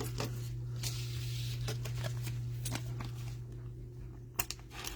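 Trading cards being handled: soft rustling and sliding with a few light clicks as cards are flipped and shuffled, the sharpest click near the end. A steady low hum runs underneath.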